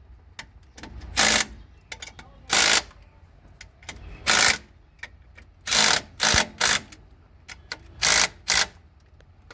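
Short bursts of a wrench tightening the bolts of a new clutch pressure plate on a Hyundai Grand i10, about eight rasping bursts with pauses and a few light clicks in between.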